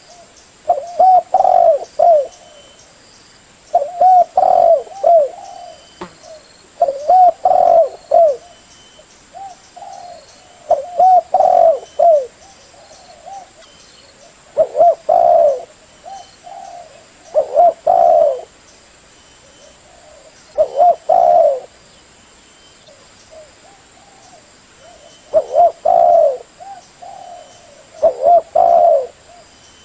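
Spotted dove cooing: short phrases of several coos each, repeated about every three seconds. This is the call used as a lure for the species.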